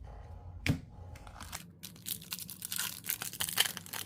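An Upper Deck hockey card pack wrapper being torn open and crinkled by hand, a dense crackly rasping that builds over the last couple of seconds. A single sharp knock about a second in.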